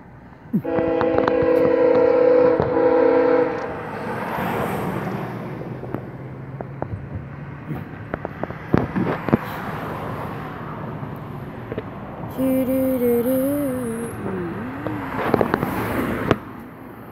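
Passenger train's multi-tone horn sounds one steady chord for about three seconds, then the train passes close by with a rumble and a clatter of wheels over rail joints. A brief wavering tone comes over it about two-thirds of the way through.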